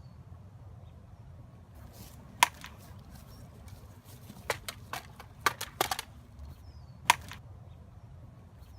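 Prop swords striking each other in a mock duel: a series of sharp, irregular clacks, bunched together in the middle, with single loud strikes about two and a half seconds in and about seven seconds in.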